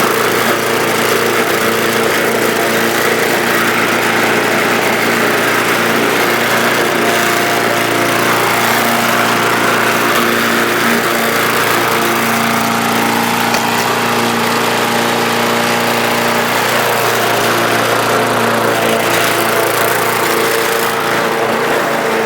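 A Bolens lawn mower's 5.5 hp Briggs & Stratton engine running steadily at a constant speed.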